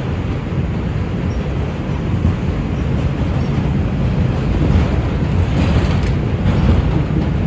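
NYC Subway R142 train car running between stations: a steady low rumble of wheels on rail with rattling and hiss, a little louder and harsher from about four and a half seconds in.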